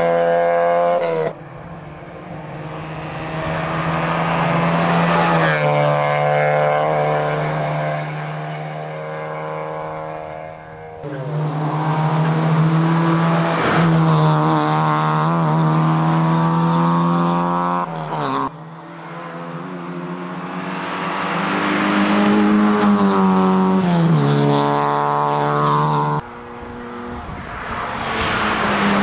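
Small Fiat hatchback competition cars, among them a Fiat Cinquecento, running hard up a hillclimb course, the engine note climbing in pitch under acceleration and dropping at gear changes as each car goes by. Four short passes are cut together, each ending abruptly and the next starting quieter and building.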